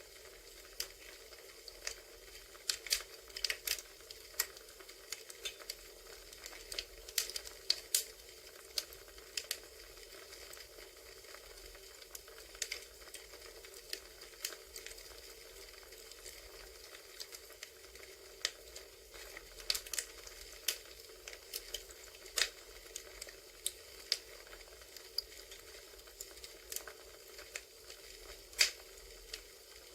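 Recorded campfire: wood fire crackling, with irregular sharp pops over a steady soft hiss.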